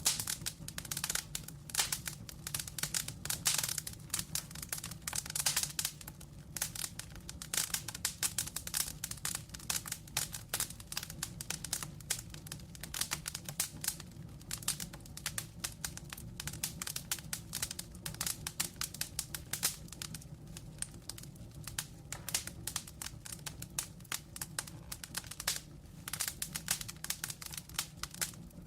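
Wood fire in a fireplace crackling, with dense irregular pops and snaps over a steady low rumble of flame.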